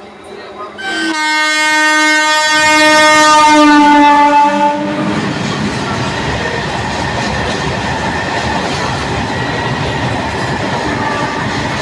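Indian train's horn sounding for about four seconds, starting about a second in, loudest near its end and dipping slightly in pitch as it stops. It is followed by the steady rumble and wheel clatter of the train running on the track.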